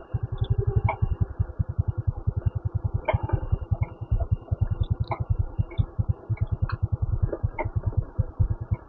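Motorcycle engine running at low revs, a steady quick train of low thuds, with faint scattered ticks over it.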